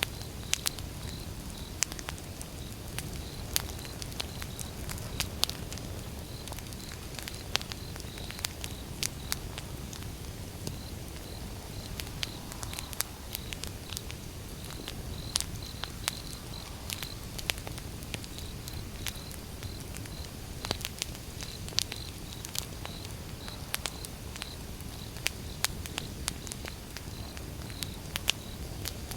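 Wood fire burning: irregular sharp crackles and pops of burning logs over a low steady rumble.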